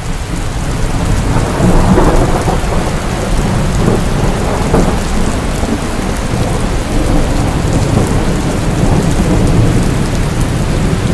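Steady heavy rainfall with a long, low rumble of thunder that swells about two seconds in and keeps rolling.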